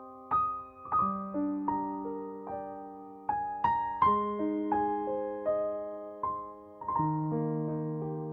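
Slow, gentle solo piano music: single notes and held chords, each struck note decaying away.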